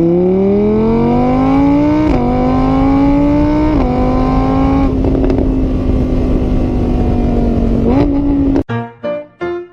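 An engine revving up through the gears: its pitch climbs, drops back at a shift about two seconds in and again about four seconds in, then holds steady before cutting off suddenly near the end. Piano music starts right after.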